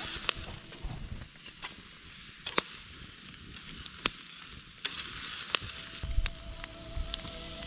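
Pork chops sizzling in a frying pan: a steady hiss broken by sharp pops of spitting fat.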